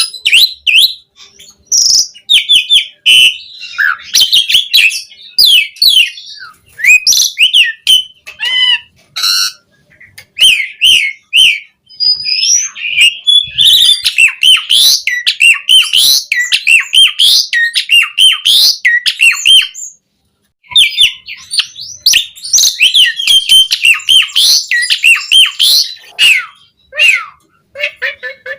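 Asian pied starling (jalak suren) singing a long, busy song of fast chirps, whistles and harsh rattling notes in constant variation, with one short pause about two-thirds of the way through.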